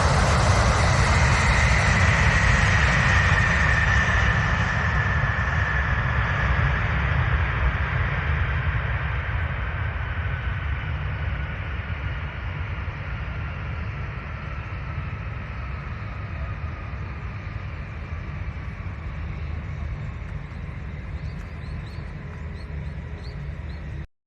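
Jet airliner's engines fading as the aircraft moves away: a whine slowly falling in pitch over a steady low rumble, the whole sound growing gradually quieter, then cutting off suddenly near the end.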